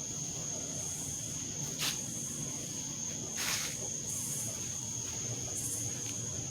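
Quiet background with a steady high-pitched whine and short high chirps every couple of seconds. Two brief rustles or scrapes come about two and three and a half seconds in.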